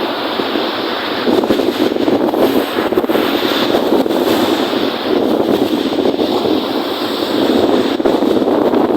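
Wind-driven waves on a lake, a dense steady rush of water, with strong wind buffeting the microphone. The rush swells a little about a second in and again past the middle.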